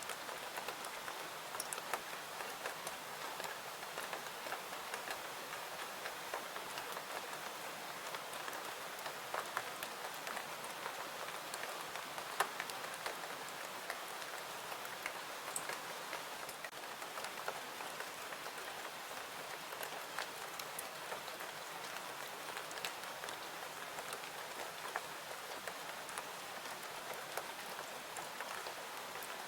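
Steady rain falling, an even patter with scattered sharp ticks of single drops or pops.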